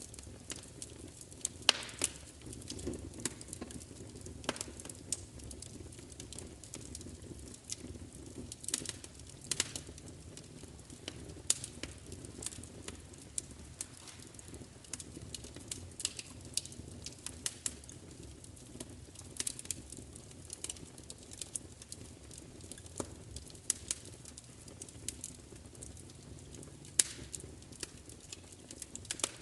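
Wood fire crackling: irregular sharp pops and snaps, some much louder than others, over a steady low hush of burning.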